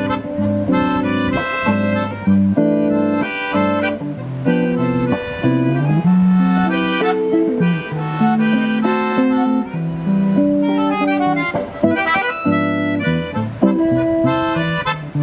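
Piano accordion playing an instrumental tune in sustained chords and melody, accompanied by guitar, played live by a two-piece duo.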